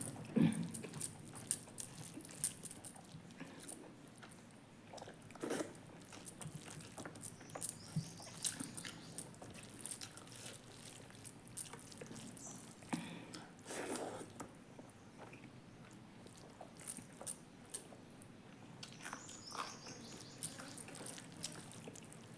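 Close-up eating sounds: a person chewing and biting food, with wet mouth clicks and smacks at irregular intervals.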